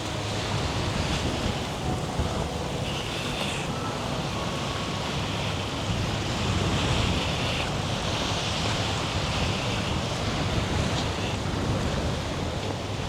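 Sea waves washing onto the beach, swelling and easing every few seconds, with wind rumbling on the microphone.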